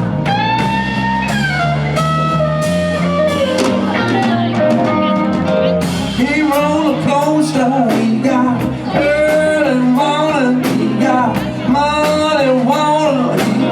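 Live blues-rock band playing, with electric guitar over bass and drum kit; the melodic line grows busier about halfway through.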